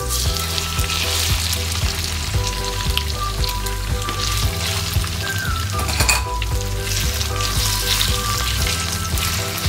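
Raw marinated chicken pieces going into hot oil with chopped garlic in a wok and frying with a steady crackling sizzle, while a silicone spatula stirs and turns them. The sizzle swells as the chicken goes in.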